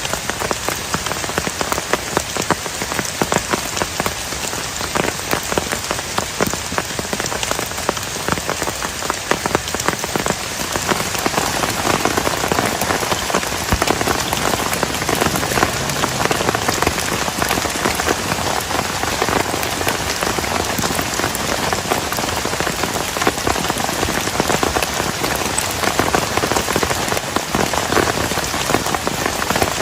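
Heavy rain falling steadily, thick with separate drop hits on a close surface; it grows a little heavier about ten seconds in.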